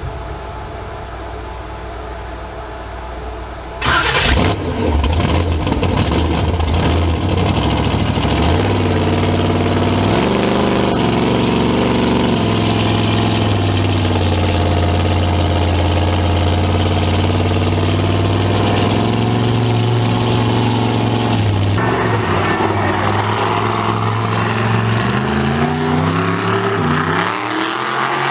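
A vehicle engine starts with a loud burst about four seconds in, settles into a steady run with a couple of brief revs, then rises steadily in pitch near the end as it accelerates.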